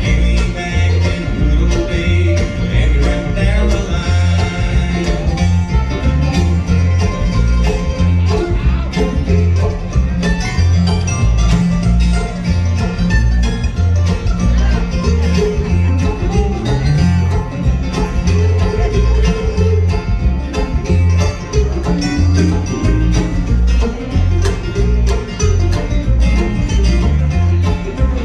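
Bluegrass band playing an instrumental stretch: banjo and guitar picking over a bass line that steps between notes on the beat.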